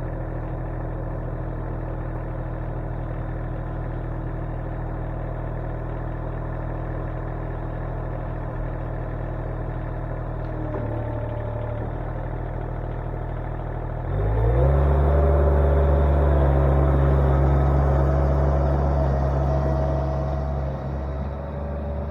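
Derette V1000 mini skid loader's engine running steadily, then revved up quickly about two-thirds of the way through, held at high throttle for several seconds and easing back down near the end.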